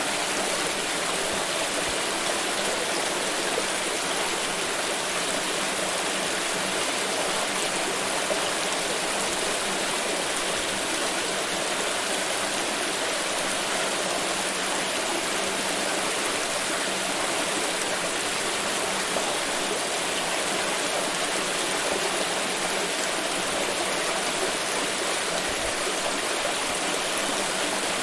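Water pouring in a steady, unbroken rush that does not change.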